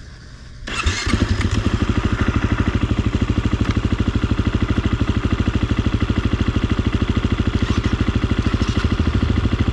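Dirt bike engine starting about a second in, then idling with an even, rapid beat.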